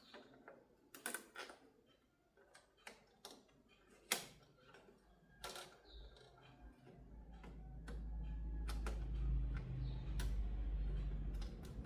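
Scattered sharp clicks and taps of tools and small parts being handled during TV repair work. From about six seconds in, a low rumble builds and holds until shortly before the end.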